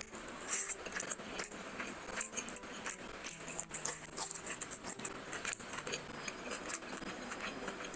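Close-miked chewing of fried fish eaten by hand, heard as a dense run of small mouth clicks and smacks.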